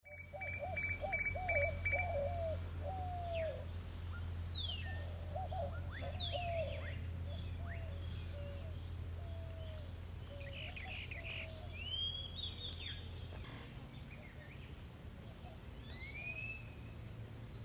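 Birds calling and chirping outdoors, with a run of short repeated arched notes early on and higher rising and falling chirps throughout. A steady low hum sits underneath and stops about thirteen seconds in.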